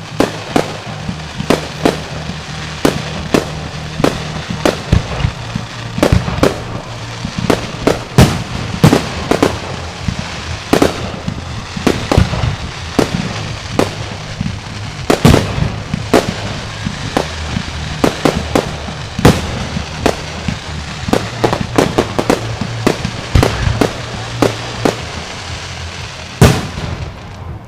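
Fireworks going off in a rapid, irregular string of sharp bangs and pops, several a second, with a last loud bang near the end.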